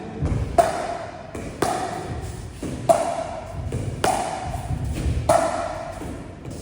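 Pickleball rally: a plastic ball struck back and forth with paddles, five sharp pops with a short ringing tone, about one every second and a bit.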